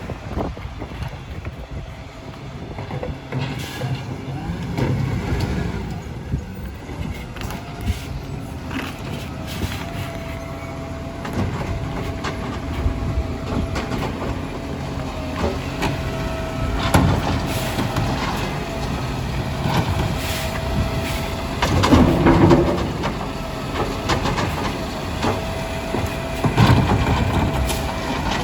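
Garbage truck on an organics collection run: the engine runs with a low rumble, a steady whine sets in about a third of the way through, and loud clunks and clatters come three times in the second half.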